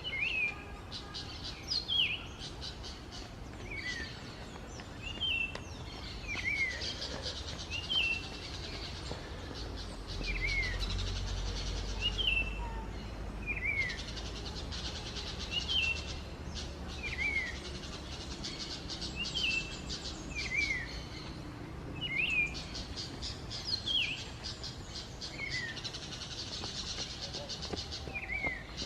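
A wild cak wilis abu songbird calling a short, down-slurred whistled note over and over, about once every second or so. Behind it runs a fast, high, buzzing trill that breaks off briefly a few times.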